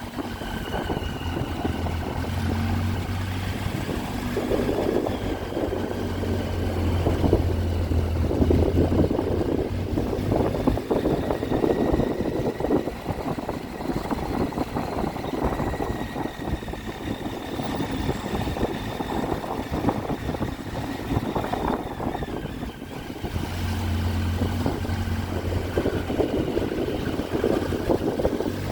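Triumph Tiger 800's three-cylinder engine running as the motorcycle is ridden, mixed with wind rush on the microphone. A deep low hum swells in the first third and again near the end.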